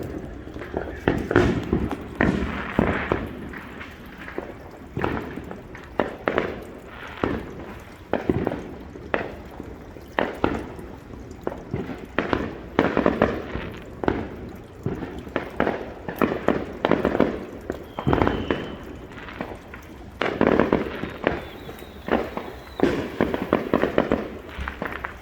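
Consumer fireworks going off in a rapid, irregular string of bangs and crackling bursts, with a couple of faint short whistles in the second half.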